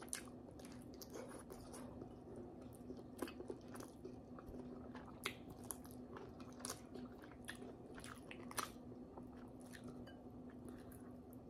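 Faint chewing and biting as boiled pork hock is eaten by hand, with scattered small mouth clicks over a faint steady hum.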